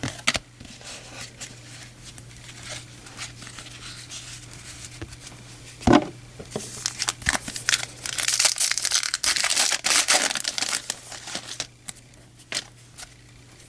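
Foil wrapper of a baseball card pack crinkling and tearing, densest and loudest in a long stretch from about halfway in, with scattered light clicks and a sharp knock as the cards are handled.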